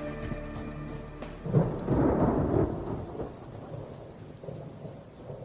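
Rain falling with a rumble of thunder from about a second and a half in, the loudest sound here, then the rain fading away. This is the storm effect that closes the recording; the last notes of the music die away in the first second.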